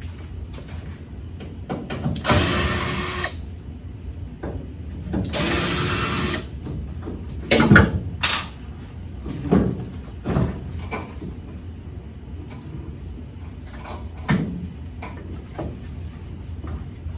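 A power drill/driver runs in two short bursts of about a second each, working at a fastener, followed by several sharp knocks and clanks of tools and parts.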